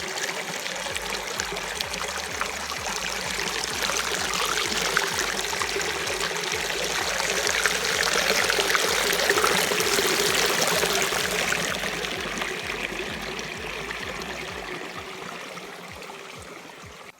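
Rushing water: a steady, loud wash that swells toward the middle and eases off again. A low beat of background music runs underneath.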